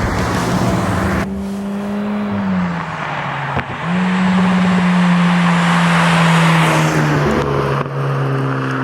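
Renault Megane R.S. Trophy's 1.8-litre turbocharged four-cylinder engine and exhaust running under load. The pitch drops, jumps back up about four seconds in, then sinks slowly, with abrupt changes that sound like cuts between shots.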